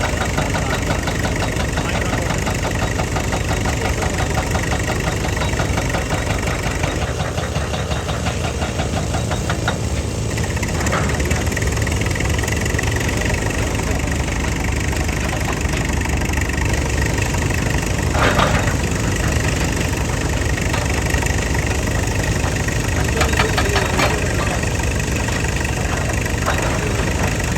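Heavy machine's engine running steadily with a fast, even pulsing, broken by a few short clanks.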